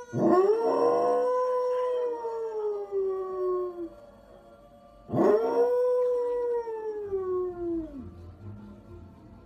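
Dog howling: two long howls, each rising quickly and then sliding slowly down in pitch, the second starting about five seconds in.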